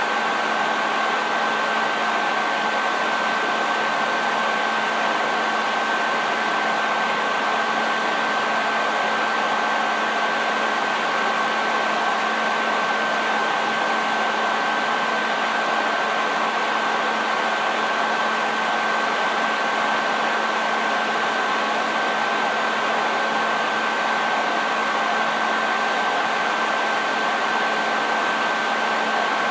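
Hair dryer running steadily on one setting: a constant rush of blown air with a high, steady motor whine and a lower hum underneath.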